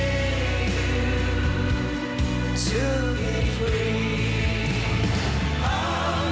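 Live rock band performing with singing: long held, wavering vocal notes over steady bass and occasional drum and cymbal hits.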